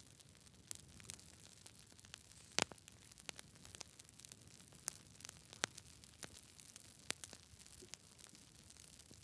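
Wood fire crackling: irregular sharp pops and snaps over a soft hiss, with one louder pop a few seconds in.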